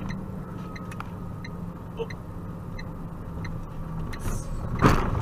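A car engine running steadily, heard from inside the car as a low hum, with faint scattered ticks. Near the end comes one loud, sharp thump.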